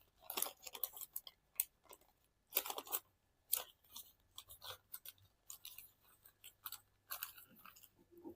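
Origami paper being folded and creased by hand: faint, scattered crinkles and rustles with a few sharper crackles.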